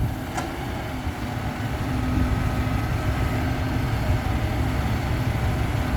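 Heavy vehicle's diesel engine running steadily with a low, even rumble.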